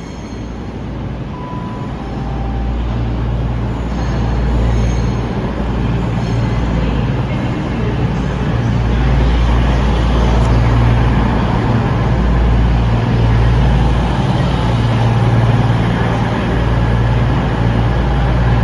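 CrossCountry class 220 Voyager diesel multiple unit's underfloor diesel engines running with a steady low drone. The drone grows louder as the train comes in.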